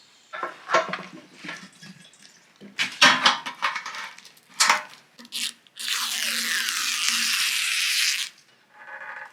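Workshop handling noises: scattered clicks, knocks and scrapes of tools and metal parts, then a steady hiss lasting about two and a half seconds past the middle.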